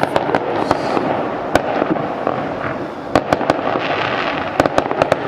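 New Year's fireworks going off all around: a steady crackle of many distant explosions, with sharp bangs and firecracker reports scattered through it, several close together about three seconds in and again near the end.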